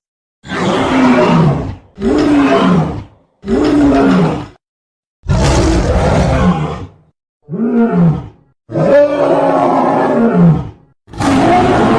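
A series of seven loud monster roar sound effects, each one to two seconds long with a short silence between them, the pitch dropping toward the end of each roar. They are layered from film-creature and big-cat roars.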